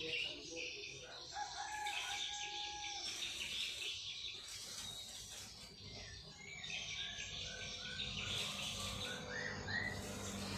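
Birds chirping and singing in short rising notes over a steady high insect-like buzz, with a held crowing call a couple of seconds in.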